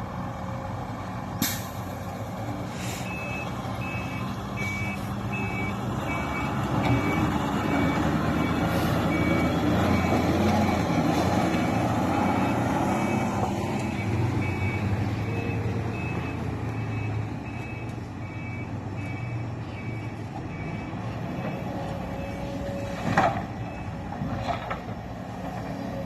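Dump truck's diesel engine running, its drone louder through the middle, with a reversing alarm beeping in a steady two-tone pattern for much of the time. A few sharp knocks stand out, one shortly after the start and one near the end.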